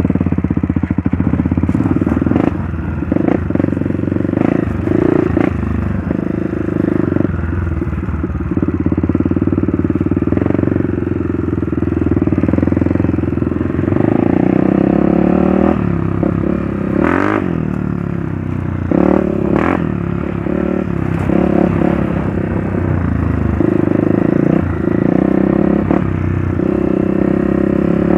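Trail motorcycle engine running as the bike is ridden, the throttle rising and easing off, with scattered clattering knocks from the bike over rough ground.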